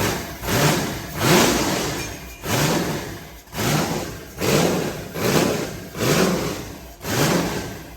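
408 cubic-inch stroker V8 on open zoomie headers revving up and falling back, about once a second, eight times over.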